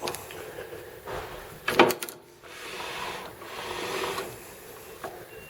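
Metal lathe parts being handled: a sharp clank a little under two seconds in, then a scraping, sliding sound lasting over a second.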